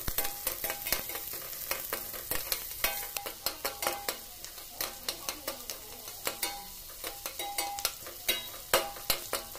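Shallots frying in hot oil in a stainless steel kadai while a metal spatula stirs them, a steady sizzle under frequent sharp scrapes and taps of the spatula on the pan, some strikes leaving a short ring.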